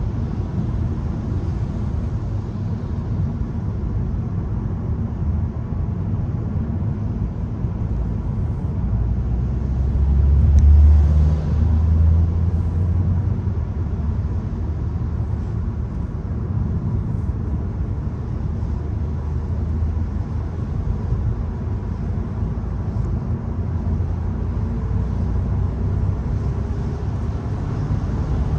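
Volkswagen Golf 1.0 TSI's three-cylinder turbo petrol engine and road noise while driving: a steady low rumble that swells briefly about ten seconds in.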